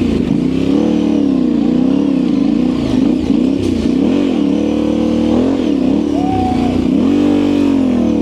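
Yamaha Ténéré 700's parallel-twin engine revving up and down again and again under throttle, as the bike fights its way up a tough off-road obstacle.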